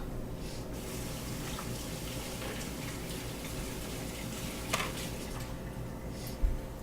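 Steady hiss of water running, with a sharp click about five seconds in and a low thump near the end.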